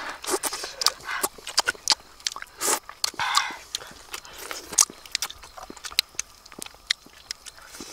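Biting and crunching on a cooked fish's bones and spine, close to the mouth: many sharp, irregular cracks, with a couple of longer rushes of noise about three seconds in.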